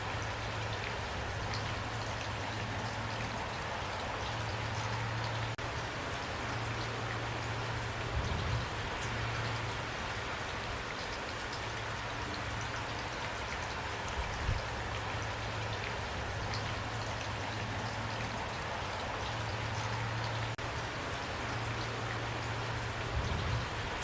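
Steady rain falling with dense raindrop patter. A low hum fades in and out underneath, and three brief low thumps stand out, about a third of the way in, past halfway, and near the end.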